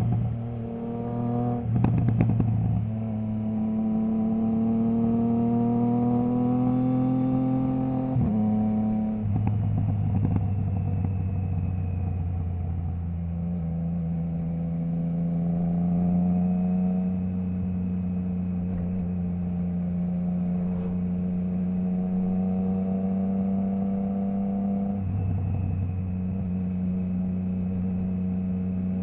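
Triumph Trident 660's three-cylinder engine through a Zard stainless full exhaust with the baffle removed, heard from the rider's seat. A few sharp cracks come near the start, then the revs climb steadily for several seconds. The pitch drops abruptly at a gear change about eight seconds in, and the engine then runs at fairly steady revs with small rises and falls.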